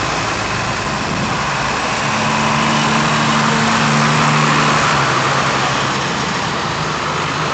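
Vintage tractor engines running, with one engine's hum standing out and growing a little louder for a few seconds in the middle.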